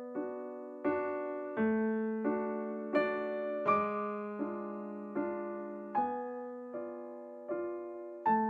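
Background piano music: a slow, gentle sequence of struck chords, about one every three-quarters of a second, each ringing and fading.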